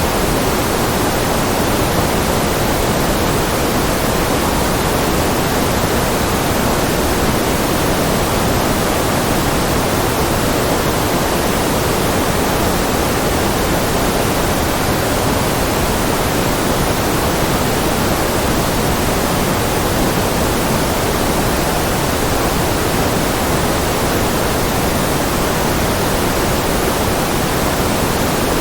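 Steady generated noise track of the white-noise kind, an even, unchanging hiss with most of its weight in the low and middle range.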